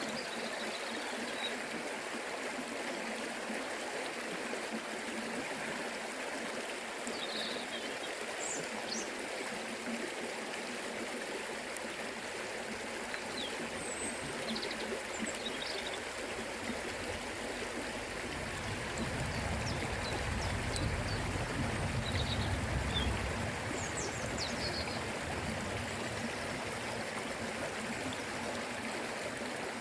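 A forest river flowing: a steady rush of water. A low rumble swells in for a few seconds past the middle.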